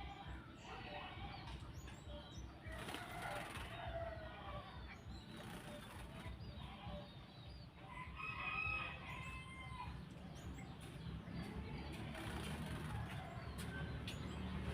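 Cucak jenggot (grey-cheeked bulbul) fluttering and flapping its wings while bathing, with a short bird call about eight seconds in.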